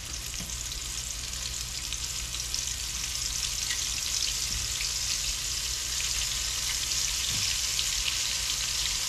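Breaded catfish bites frying in hot oil in a cast iron skillet: a dense, steady crackling sizzle that grows a little louder as more pieces are dropped in.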